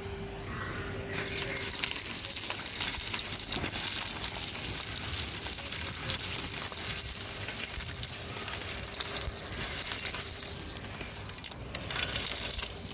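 Henry HVR 200-22 vacuum cleaner running with a steady motor hum while grit and small stones crackle and rattle up its hose, thickening about a second in.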